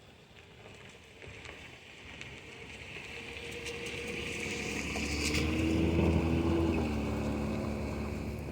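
Jet airliner passing by, its engine noise swelling from a faint whine to a loud rumble about six seconds in and then fading, the pitch dropping as it goes past.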